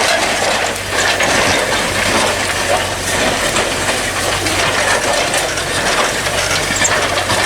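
Tractor engine running with a steady low hum while the plough turns dry, stony soil, giving a dense crunching and scraping of earth and stones against the plough.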